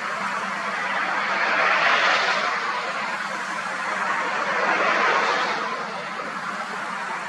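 Jet aircraft noise: a steady rush that swells twice, about three seconds apart.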